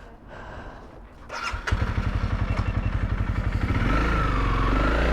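Motorcycle engine cranking and starting about a second and a half in, then running at idle with an even pulsing beat.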